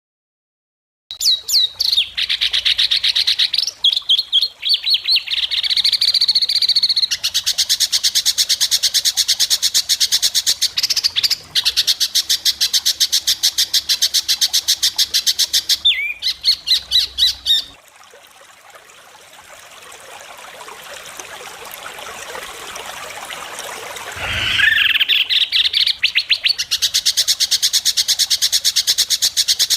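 White-rumped shama (murai batu) singing loud, sharp, very rapid rattling phrases starting about a second in. The song breaks off about two-thirds of the way through for a few seconds of rising hiss, then resumes.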